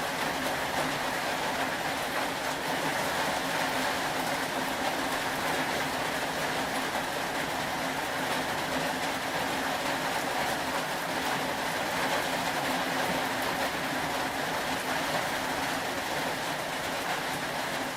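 Steady rain: an even hiss of falling rain with faint scattered ticks of drops.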